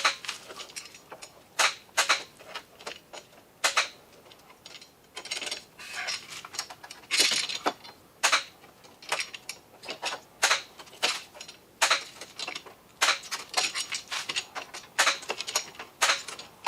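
Spot-weld dent puller working a dented car door: a run of sharp metallic clicks and snaps as the welding tip tacks onto the steel panel and is pried free, irregular, sometimes single and sometimes in quick clusters, with crackling stretches between.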